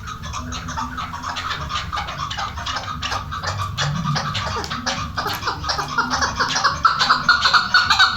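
Chukar partridge calling: a fast run of repeated chuk notes, several a second, building louder toward the end.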